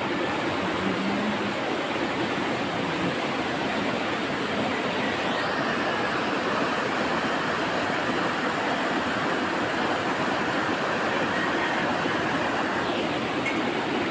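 River water rushing, a steady even hiss with no change in level.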